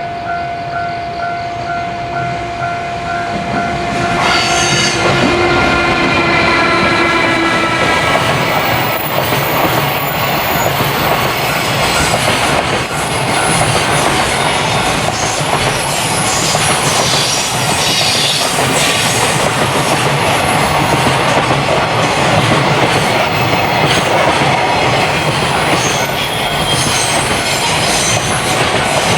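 A train passing close by: its horn sounds about four seconds in, followed by the rumble and clatter of the wheels over rail joints with some wheel squeal.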